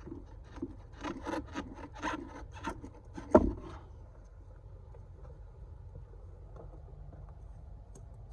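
Hands working parts into place in a car's engine bay: a run of short rubbing, scraping strokes, about two a second, with a sharp knock about three seconds in. After that only a low steady background hum remains.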